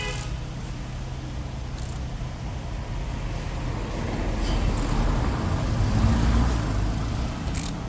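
Road vehicle noise swelling to a peak about six seconds in and then easing, like a car passing by, over a steady low hum, with a few short sharp clicks.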